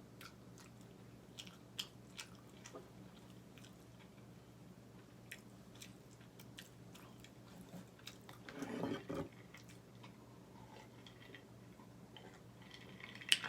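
A person chewing and biting food close to the microphone: soft scattered mouth clicks and smacks, with a louder stretch about nine seconds in and a sharp click near the end.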